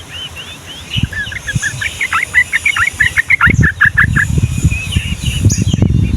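Yellow-vented bulbul singing a fast rolling run of short, sharp notes, several a second, which stops a little past the middle. A loud low rumbling noise sets in just before the song stops and keeps going.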